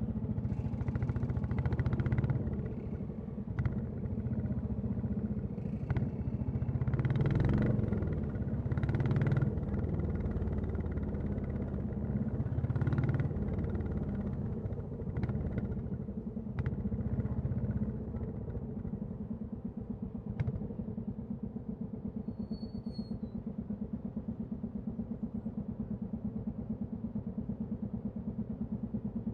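Royal Enfield Classic 350's single-cylinder engine and exhaust on the move, rising and falling with the throttle, with a few sharp clicks. A little over halfway through it settles to a steady, quieter, even thumping idle.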